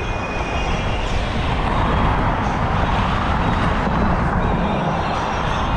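Wind buffeting a GoPro's microphone on a moving bicycle, a steady, loud rushing with tyre and road noise beneath it.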